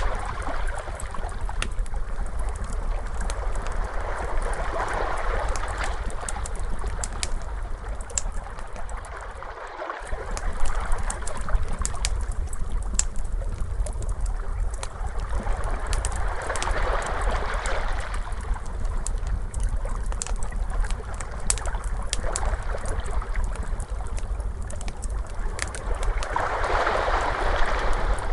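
Ocean waves washing in and drawing back in slow swells a few seconds apart, with a wood fire crackling in sharp snaps throughout, over a steady low rumble. The low rumble drops out briefly about ten seconds in.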